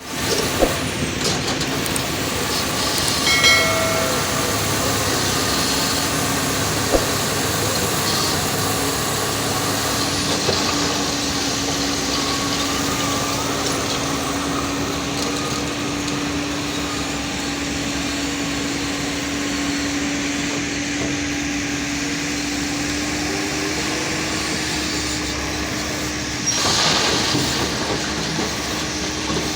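Heavy diesel machinery of a wheel loader at work in a quarry, its engine running steadily, with a few sharp knocks in the first seconds and a burst of hiss a few seconds before the end.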